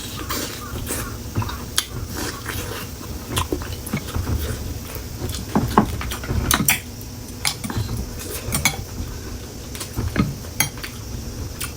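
Eating utensils clicking and scraping irregularly against a bowl of noodle soup, with close-up chewing.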